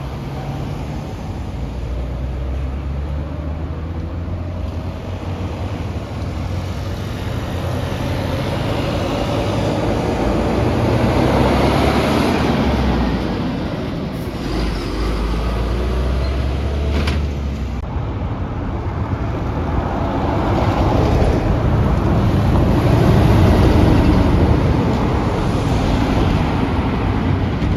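Heavy trucks on a road: a continuous low engine drone with tyre and traffic noise, swelling louder about three quarters of the way through.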